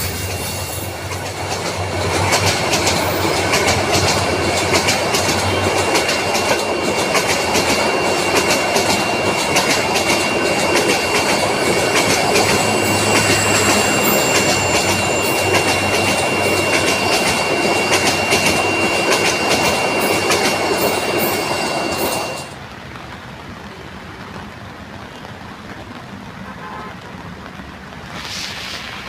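Train running along the rails: a dense rumble with rapid wheel clicks, a steady high whine, and a brief high squeal in the middle. About three-quarters of the way through it cuts off suddenly to a quieter, even hiss.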